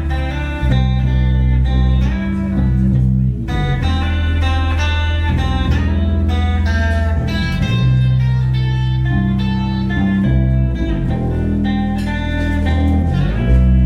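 Live band music led by electric guitar over a bass line, with notes changing every second or two.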